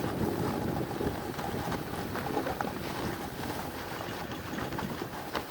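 Steady rushing noise of a snowboard sliding over snow, with wind buffeting the microphone and a few faint ticks.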